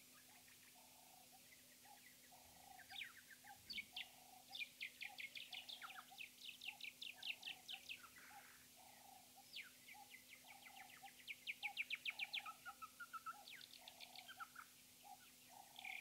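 Faint wild birdsong: a low note pulses steadily about twice a second, and from a few seconds in, several bouts of rapid trilling made of sharp, high repeated notes join it.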